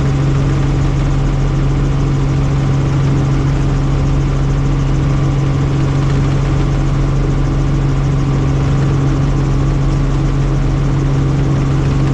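Helicopter in flight, its engine and rotor making a loud, steady drone with a strong low hum.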